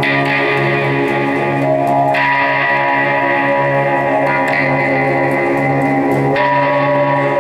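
Live guitar music: sustained, droning chords that ring on without a break and shift to a new chord about every two seconds.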